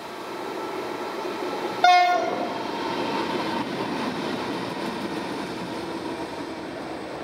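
Freight train led by Pacific National diesel locomotives passing close by: a single short horn blast about two seconds in, then the steady noise of the locomotives' engines and the wagons rolling past.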